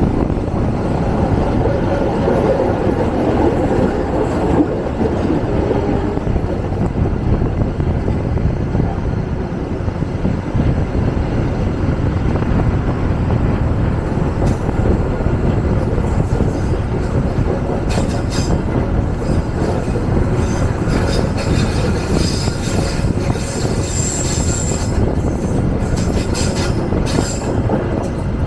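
Moving passenger train heard from on board: a steady rumble of the wheels running on the rails. In the second half come sharp clicks and a brief high wheel squeal.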